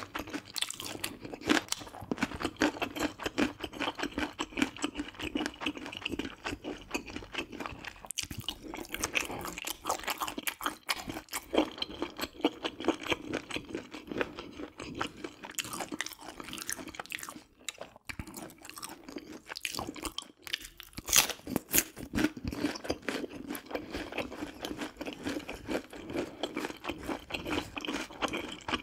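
Close-miked eating sounds: a person chewing mouthfuls of spicy stir-fried webfoot octopus and chewy noodles, a steady run of wet chewing clicks and smacks, with a few louder smacks around two-thirds of the way through.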